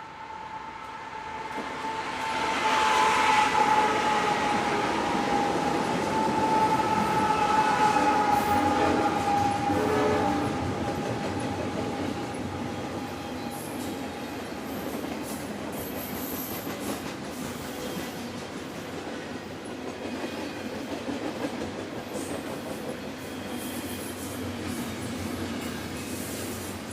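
A passing train sounding its horn, a held chord whose pitch sags slightly as the train goes by, loudest a few seconds in and fading out about halfway through. Under and after it, the steady rumble and clatter of the train's wheels rolling through the station.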